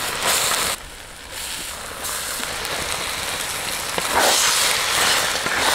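Oyster mushrooms and masala paste sizzling in hot oil in a clay pot. About four seconds in, a spatula starts stirring them, and the sizzle gets louder and rougher with small crackles.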